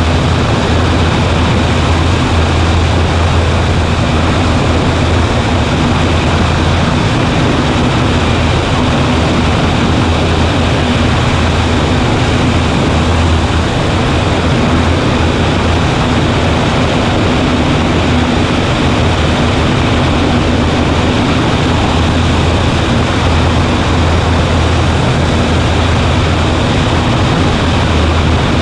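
Cessna 140A's four-cylinder Continental engine and propeller droning steadily, with a constant low hum that never changes in pitch or loudness.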